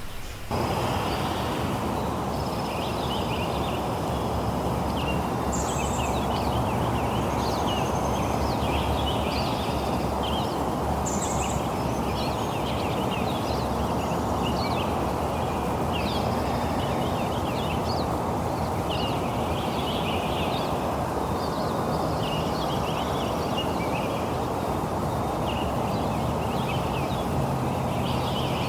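Steady rain with birds chirping over it, many short calls coming one after another. The change to this sound comes abruptly about half a second in.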